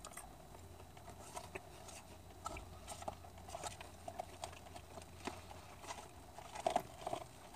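A person chewing chicken nuggets: faint, irregular clicks and smacks of chewing, a little louder near the end.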